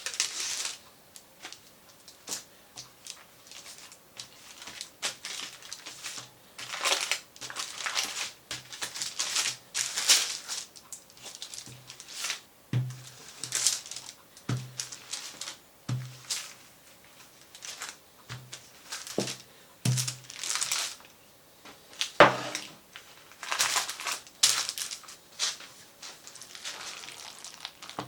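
Kitchen food-preparation handling sounds: irregular rustling and scraping swishes with sharp taps and knocks, like food being worked by hand on a counter.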